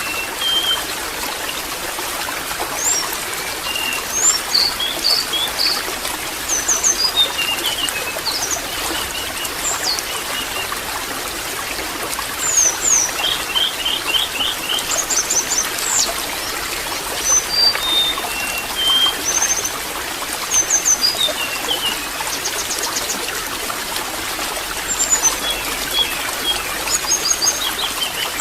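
Water trickling steadily, with small birds chirping over it: many short high chirps, quick trills and whistled notes, scattered irregularly throughout.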